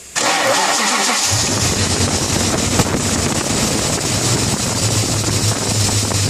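BMW M60B40 4.0-litre V8 in a 1995 E38 740i cranking and catching about a second in, then running steadily at idle. A high-pitched squeal from the failing water pump bearing runs over it, a noise this engine makes mainly at start-up.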